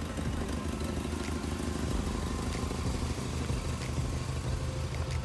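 Off-road vehicle's engine running steadily, with a few faint clicks.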